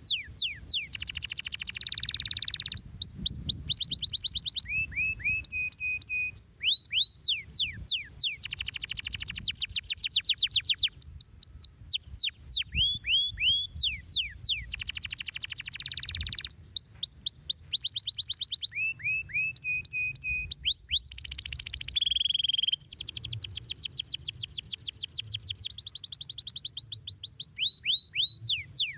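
Canary singing continuously in long, shrill phrases: fast runs of repeated high down-slurred notes, rolling trills and a few held piping notes.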